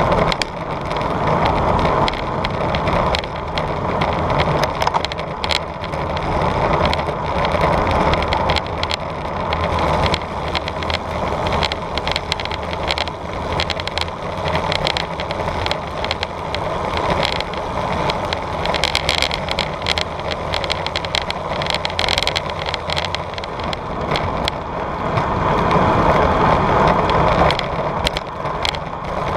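Bicycle being ridden: a steady rushing noise of tyres and air with frequent small clicks and rattles.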